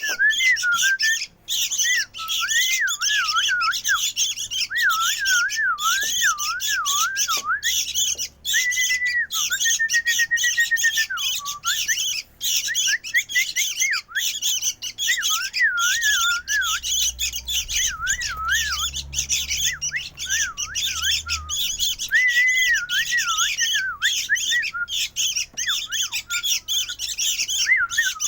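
Sooty-headed bulbul (kutilang) chick calling noisily and almost without pause: harsh, raspy squawks with a wavering, warbling whistle running through them.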